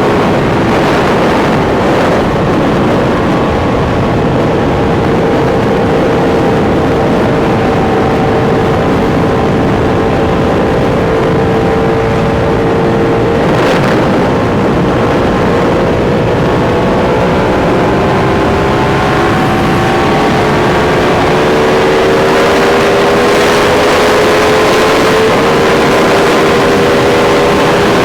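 Sport motorcycle engine running at steady highway cruising speed under heavy wind rush, its note holding level and climbing slightly near the end.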